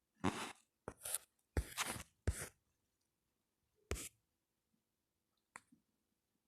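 Carrom striker and coins clacking on the board: a quick run of sharp knocks in the first two and a half seconds, another about four seconds in, and a faint tick near the end.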